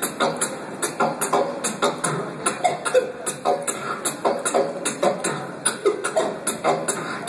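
A man beatboxing: a steady, fast beat of sharp vocal clicks and hits, about three or four a second.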